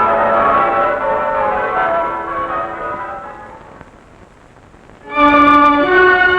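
Bells ringing, fading away over the first four seconds. About five seconds in, soundtrack music with held notes starts loudly.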